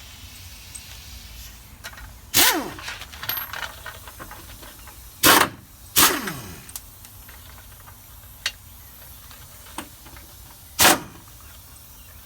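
Impact wrench with a 9/16 deep socket firing in four short bursts on the shock's upper mount nuts. The motor winds down with a falling whine after some of the bursts, and two bursts come close together in the middle.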